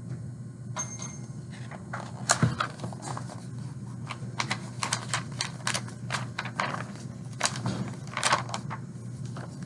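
A run of irregular sharp clicks and taps, several a second, over a low steady hum.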